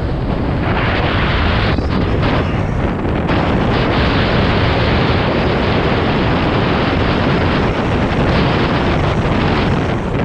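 Heavy wind buffeting on an action camera's microphone at speed, with a dense, continuous rumble and rattle from a downhill mountain bike running over rough trail.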